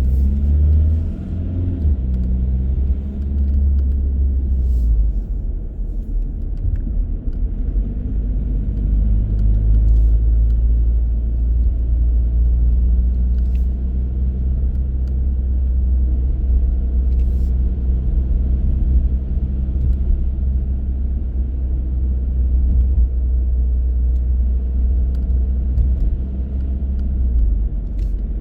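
Car driving: a steady low rumble of engine and road noise, with the engine tone drifting up and down in pitch as speed changes, and a few faint clicks.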